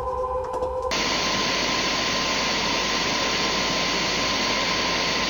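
A steady, even hiss of noise that cuts in suddenly about a second in, after a faint steady hum.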